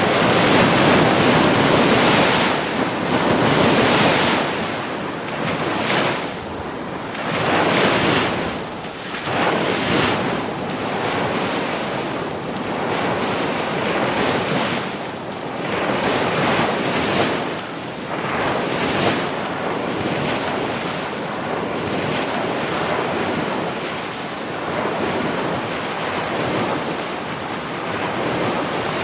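Ocean surf: waves breaking and washing in a continuous rush that swells and ebbs every second or two, with wind on the microphone.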